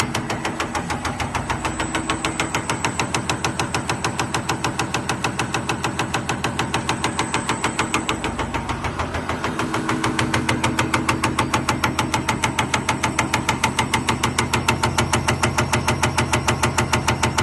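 Common rail injector test bench running: fast, even clicking of an injector being pulsed, about five clicks a second, over a steady hum; the clicking grows louder about ten seconds in.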